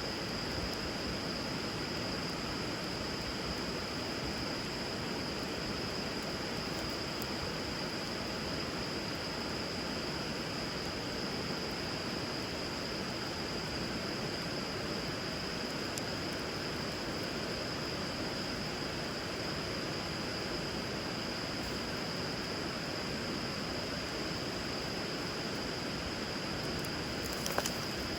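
Steady rush of flowing river water under a wood fire, with an occasional faint crackle and one sharper pop near the end. A steady high-pitched tone runs throughout.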